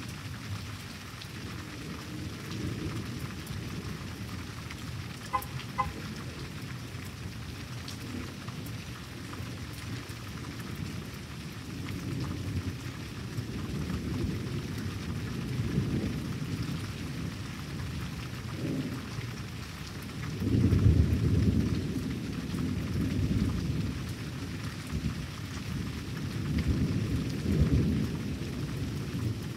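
Steady rain with rolling thunder. The low rumbles build through the middle, the loudest one swelling about two-thirds of the way in and another near the end.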